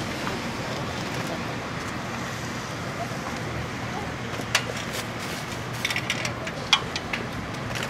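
923 series Doctor Yellow Shinkansen inspection train moving slowly over a level crossing: a steady low rumble, with a few sharp clicks and knocks in the second half.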